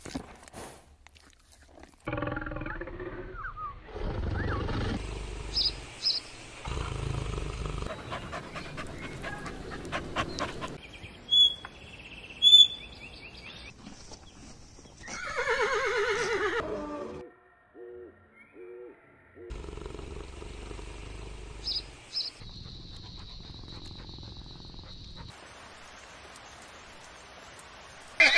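A run of short animal-sound clips cut one after another: horse calls with a pitched, wavering voice, the clearest a whinny about halfway through, with a few short high chirps in between.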